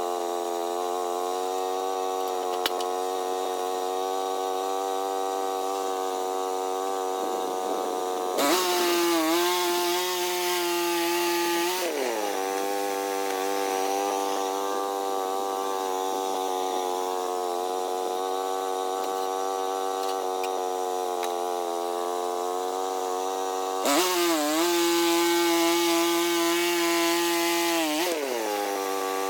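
Small sawmill's engine running steadily. Twice, for about three to four seconds each, its pitch dips under load while a louder hiss of the saw blade cutting through wood joins in, and the engine picks back up as the cut ends.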